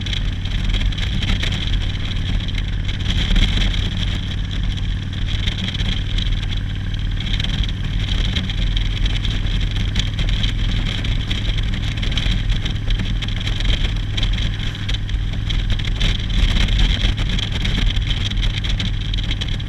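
Motorcycle engine running at a steady pitch, under a constant rushing noise.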